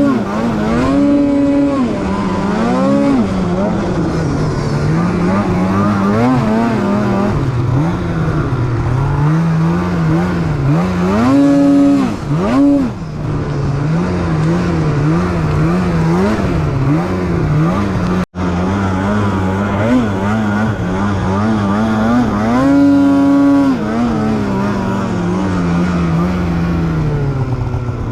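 Polaris 9R snowmobile engine being ridden, its pitch rising and falling as the throttle is worked, with several sharp revs up. The sound cuts out for an instant about two-thirds of the way through.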